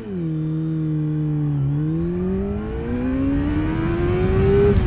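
600cc sportbike engine launching from a held 6,000 rpm. As the clutch is let out the revs drop and sag for about a second and a half, then climb steadily as the bike pulls away in first gear, with the pitch falling again just before the end.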